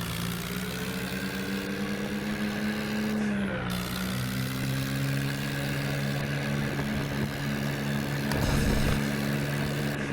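Diesel tractor engines of a Ford 3600 and a Mahindra 265 running hard under load in a tug-of-war. Their pitch climbs slowly for the first three seconds, dips about three and a half seconds in, then holds steady.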